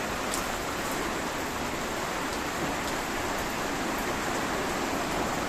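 Typhoon wind: a steady rushing noise with no let-up.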